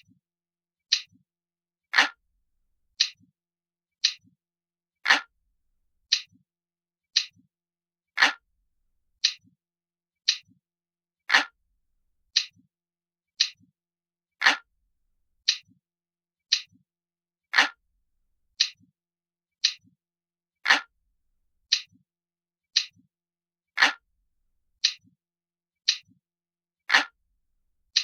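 Analog clock ticking, one sharp tick a second with silence between, some ticks louder than others.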